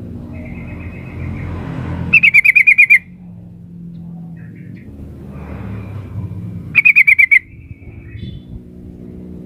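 Female yellow-vented bulbul (trucukan) calling, used as a lure to get males to answer. Soft chattering notes lead into two loud, fast rattling runs of about eight to nine notes each, one about two seconds in and one near seven seconds. A steady low hum runs underneath.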